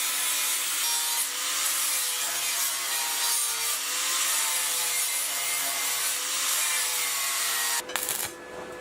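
Steady abrasive scraping or rubbing in a workshop, with a faint wavering hum under it, which stops abruptly near the end with a click.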